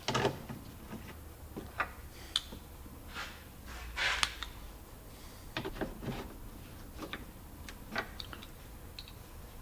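Scattered light clicks, taps and short rustles of hand work on the hatch trim and parts, with a louder rustle about four seconds in.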